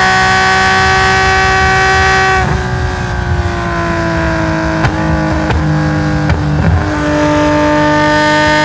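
Nissan S20 twin-cam straight-six of a racing Skyline GT-R on full throttle at high revs, then lifting off about two and a half seconds in, the revs falling with a few sharp cracks, before it goes back on the throttle at about seven seconds and the revs climb slowly again.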